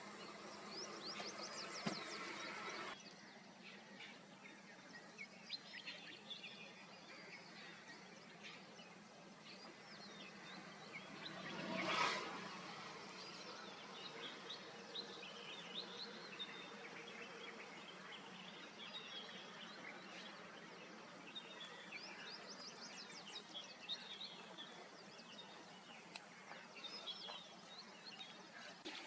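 Open-country ambience: many small birds chirping and calling in short, scattered notes over a steady background hum with insects. About twelve seconds in, a brief swell of noise rises and falls away.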